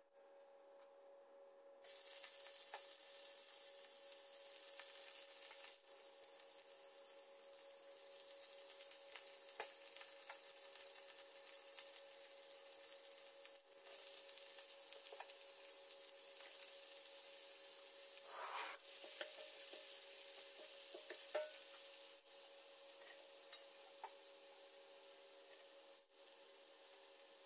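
Diced vegetables sizzling in hot oil in a nonstick frying pan as they are stir-fried, with scattered small clicks of stirring. The sizzle starts abruptly about two seconds in, over a steady faint hum.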